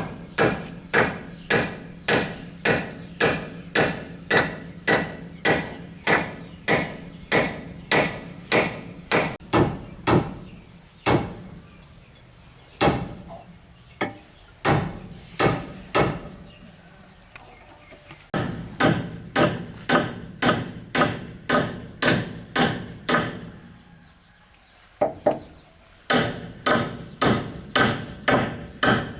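Repeated blows of a hand tool striking wood, about two a second, in the manner of hammering or chopping. The strikes thin out to a slower, patchy run midway and stop briefly near the end before starting again.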